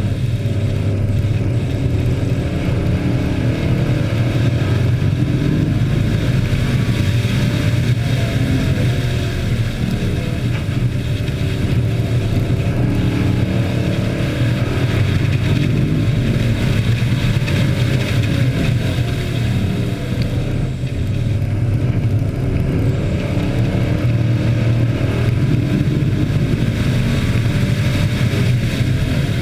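Engines of a pack of hobby-class race trucks running around a speedway oval, their pitch rising and falling as they accelerate and ease off, loud and steady.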